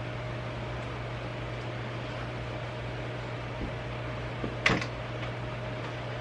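Steady mechanical hum, like a fan or appliance running, with a single sharp knock a little over halfway through and a few faint clicks just before it.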